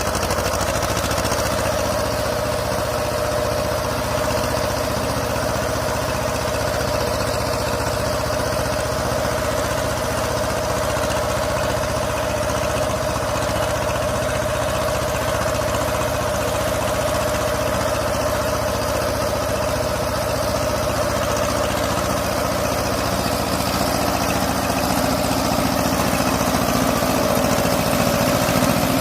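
Escort 335 tractor's diesel engine running steadily, growing a little louder near the end.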